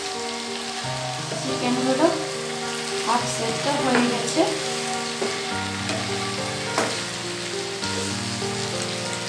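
Chicken and potatoes frying with a steady sizzle in a non-stick pan while a wooden spatula stirs them. The spatula scrapes and knocks against the pan several times, most sharply about two, four and seven seconds in.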